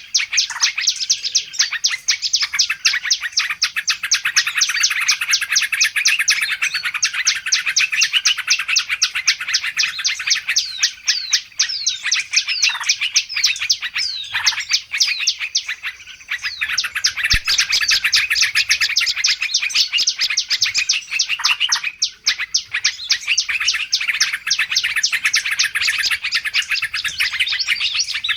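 Bird-lure recording of many small songbirds chirping rapidly over one another in a dense, unbroken chatter.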